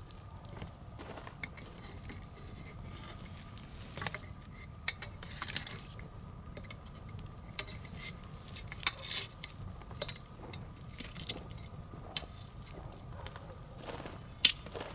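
Wood bonfire crackling: irregular pops and snaps over a low steady rumble, with one louder pop near the end.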